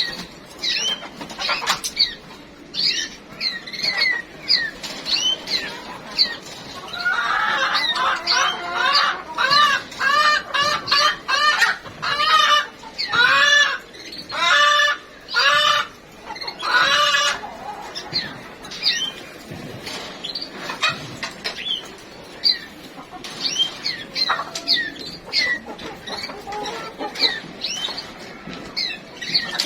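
Chickens clucking and calling, with a run of louder calls in the middle, while small cage birds chirp.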